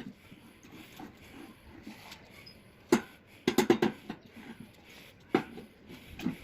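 A few sharp knocks and clatters from objects being handled: one about three seconds in, a quick run of several about half a second later, then two more single knocks near the end.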